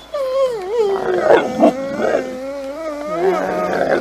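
A dog's drawn-out, warbling 'talking' vocalization: a continuous moan-like howl that wavers up and down in pitch for several seconds, the sound pet dogs make when they seem to answer their owner.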